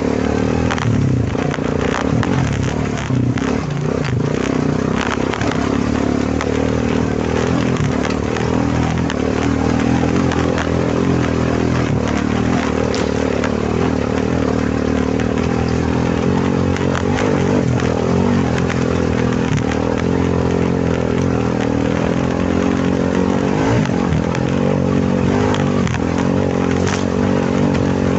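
Quad bike (ATV) engine running steadily while riding, with scattered clatter and knocks during the first few seconds.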